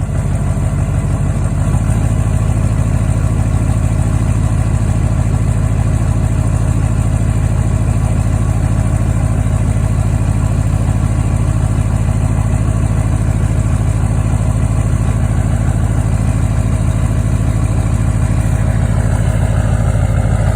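LMM Duramax 6.6-litre V8 turbodiesel idling steadily while still cold, shortly after a cold start.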